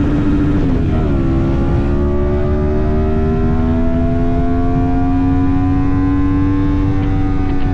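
Yamaha MT-10's crossplane inline-four engine under way. The revs dip about a second in, then climb slowly and steadily as the bike pulls. A heavy low wind rumble sits underneath.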